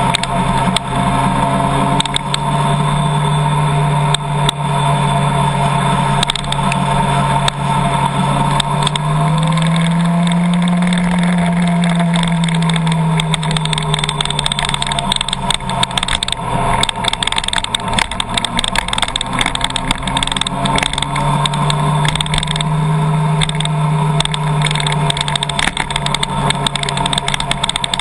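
Car engine and road noise while driving, heard steadily, with the engine note rising and falling as the car speeds up and eases off twice, about a third of the way in and again near the end.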